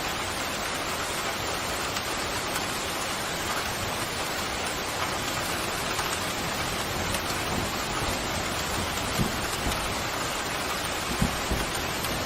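Steady rain pouring, an even hiss with a few short low thumps in the last few seconds.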